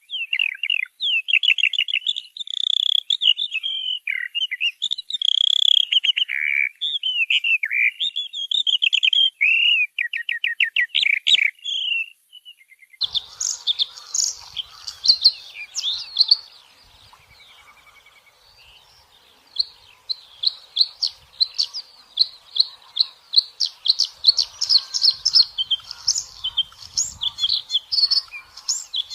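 Songbirds singing: rapid, varied high-pitched phrases and trills. At about 13 s the sound changes abruptly to a noisier background with repeated short chirps.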